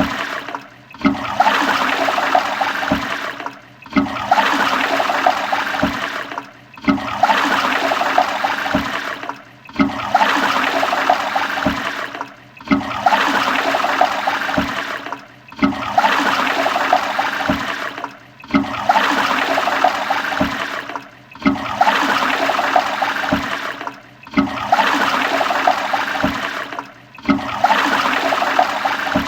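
Toilet flushing: a burst of rushing water that starts loud and tails off over a few seconds, then breaks off and starts again. The same short flush repeats back to back about every three seconds, ten times over.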